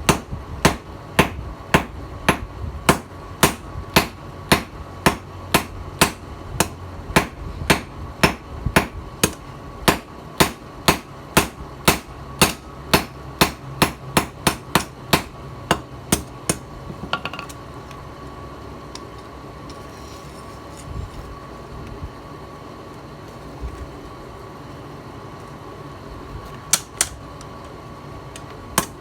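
Hammer forging the tiller-blade steel, striking about two blows a second for some sixteen seconds, then stopping. Two more strikes come near the end.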